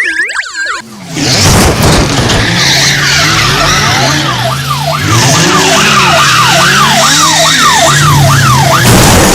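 Police car sirens. The first, with quick rising and falling glides, ends about a second in. A second one follows, sweeping rapidly up and down about twice a second in a yelp pattern, over loud engine and road noise from the moving vehicle.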